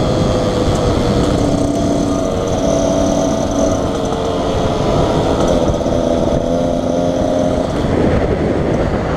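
Beta Xtrainer 300 two-stroke dirt bike engine running under way, its pitch holding for a second or two and then stepping up or down as the throttle changes, over a steady rushing noise.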